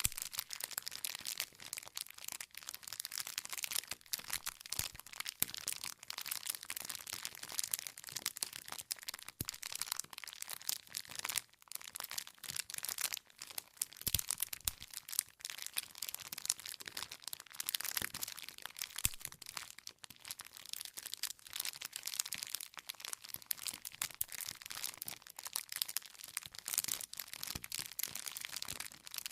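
Wood campfire crackling steadily, with dense small crackles and occasional sharper pops from the burning logs.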